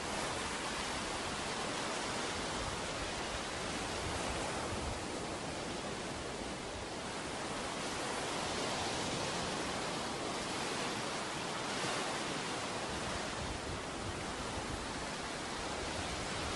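Ocean surf washing onto a beach: a steady rushing hiss that gently swells and eases every few seconds.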